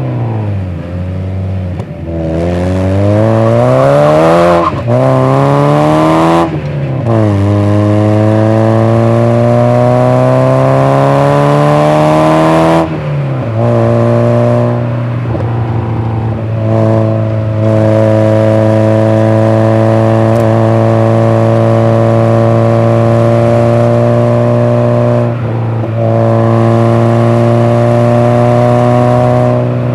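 90-horsepower Mazda MX-5 (NA) twin-cam four-cylinder pulling through the gears. The revs climb and fall back three times at the upshifts in the first thirteen seconds. The engine then holds steady revs, with a few brief dips.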